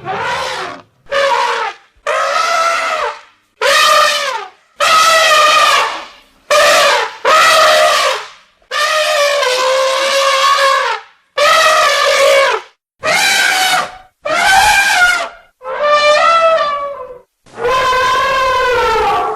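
Elephants trumpeting: about a dozen loud, brassy calls one after another, each lasting up to a couple of seconds, with short pauses between them.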